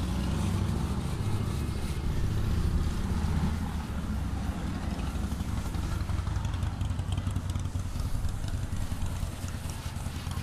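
Self-serve car wash pressure wand spraying the spot-free rinse onto a motorcycle: a steady spray hiss over a low machine hum that weakens about four seconds in.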